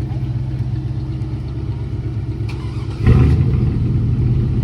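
Car engine running with a steady low rumble, which suddenly gets louder about three seconds in.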